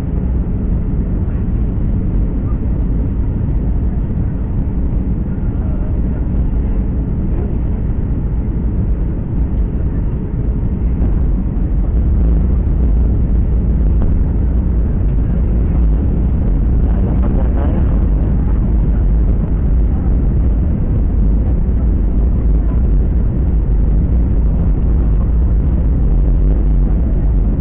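Steady rumble of a jet airliner's engines and airflow heard inside the passenger cabin, growing slightly louder about twelve seconds in.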